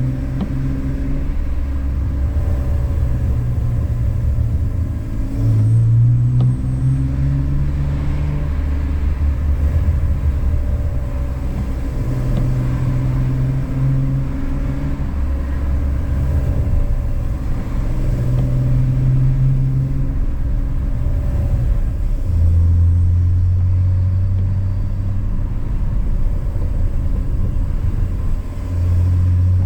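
BMW E46's inline-six engine with a K&N aftermarket intake, driving along under light load with a steady low engine note and road rumble. The note steps in pitch a few times, around six seconds in, after about twenty-two seconds and near the end.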